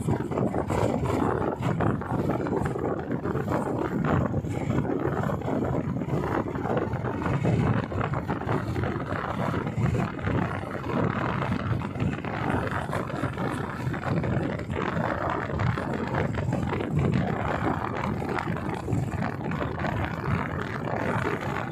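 Royal Enfield motorcycle on the move, its engine running under a loud, buffeting rush of wind on the microphone.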